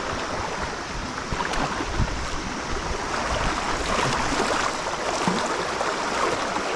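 Stream water running steadily, with small splashes and knocks scattered through it.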